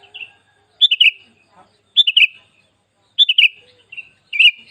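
Sooty-headed bulbul (kutilang) singing: a short phrase of a few quick falling notes, repeated about once a second, four times.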